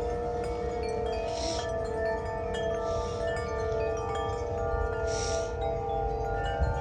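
Tubular wind chime ringing in the wind: many overlapping tones that ring on and die away, with wind rumbling on the microphone underneath.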